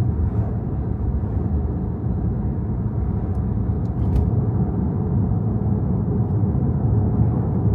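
Steady low rumble of a car driving on the road, tyre and engine noise heard from inside the cabin, with a couple of faint ticks midway.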